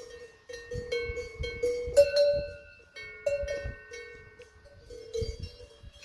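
Several cowbells of different pitch clanking irregularly, each strike ringing on briefly; the loudest clank comes about two seconds in.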